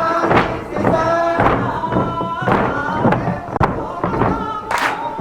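A crowd of dancers sings a Bon-dance folk song without instruments. Their feet thud in time on the shrine hall's wooden floor, about once a second.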